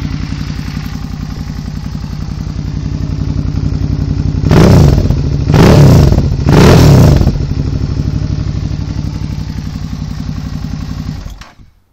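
2011 Suzuki V-Strom 650's V-twin engine idling through an aftermarket Racetech exhaust, revved three times in quick succession a little under halfway through and settling back to idle. The engine sound stops abruptly near the end.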